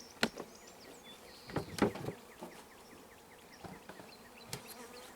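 Honeybees buzzing as they fly around an open hive, with a few sharp knocks and clicks about a quarter second, a second and a half, and four and a half seconds in.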